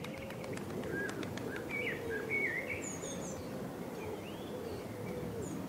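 Faint birds chirping, with short rising and falling calls scattered through, over a steady background hiss; a few small clicks sound in the first second or so.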